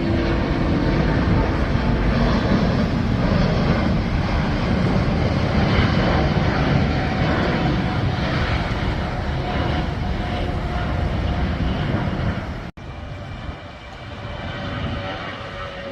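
Jet airliner taking off: a loud, steady engine roar. It breaks off abruptly near the end, leaving a quieter engine sound.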